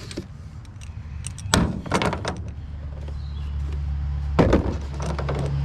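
Handling knocks and thumps from a pressure washer hose and its packaging: a sharp knock about one and a half seconds in, a couple of lighter ones just after, and a loud thump near the end. A low steady hum underneath grows louder.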